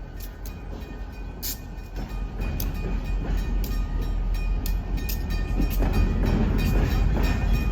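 Freight train approaching on the Ann Arbor Railroad, its low rumble growing steadily louder, with repeated sharp clicks and some steady high-pitched ringing over it.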